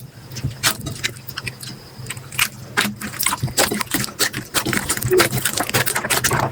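Slime being squished and worked, a dense, irregular run of sticky pops and crackles, with a faint steady low hum underneath.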